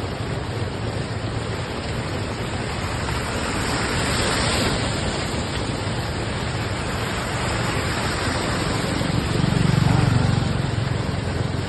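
Heavy rain falling steadily, with a vehicle passing: a low rumble swells about ten seconds in.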